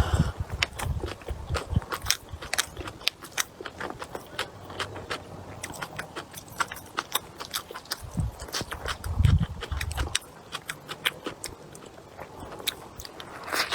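A person chewing and biting food close to the microphone, with many quick crunchy, wet clicks. A couple of low thuds come a little past the middle.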